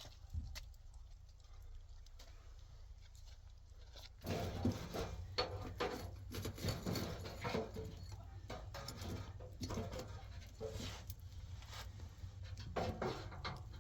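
Animal calls, many short pitched calls mixed with clicks, starting about four seconds in after a few quieter seconds.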